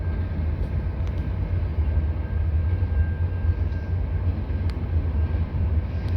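Canadian National freight train's cars rolling past at speed: a steady deep rumble of wheels on rail, with a few brief sharp clicks.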